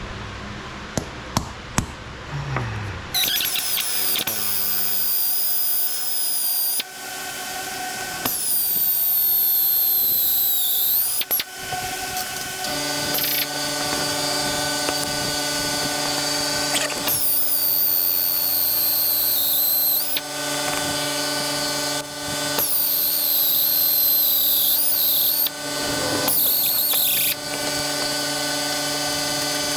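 Drill boring holes in steel in repeated runs of a few seconds. The bit squeals high as it cuts, and the pitch wavers during each run. A few light metal taps come before the first run.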